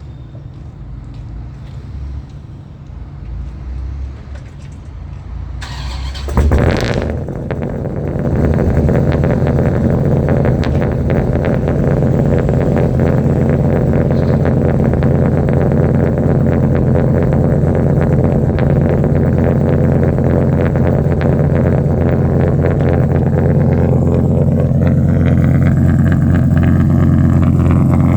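Dodge Ram SRT-10's 8.3-litre Viper V10 cold-starting. It fires about six and a half seconds in with a brief loud burst, then settles into a loud, steady cold idle.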